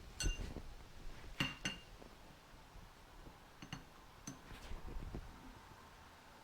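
Light metallic clinks and taps, irregularly spaced, several with a brief high ring, as steel and aluminium parts are handled in the shop press.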